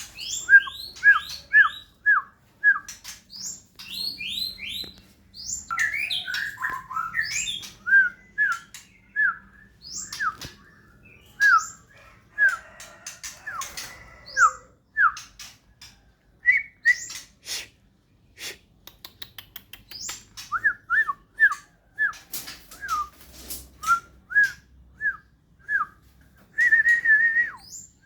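White-rumped shama calling: runs of short, falling whistled notes mixed with higher chirps and sharp clicks, with a brief held whistle near the end.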